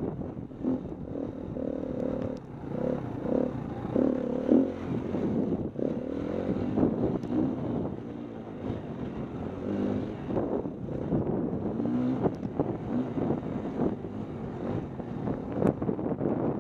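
Dirt bike engine revving up and down as it rides, with wind buffeting the microphone.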